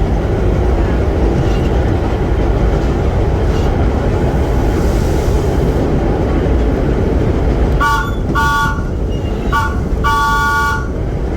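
Vintage subway train running with a steady rumble, then a horn sounding a chord of three tones in four blasts, three short and a longer last one, near the end.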